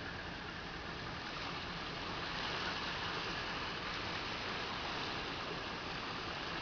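A tugboat's engine running steadily under a broad rushing hiss of water, which swells a little about two seconds in.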